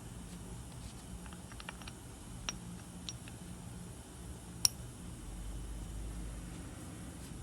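Honda Live Dio scooter's two-stroke single-cylinder engine running at a steady low idle hum, with a few scattered sharp clicks and one louder click about four and a half seconds in.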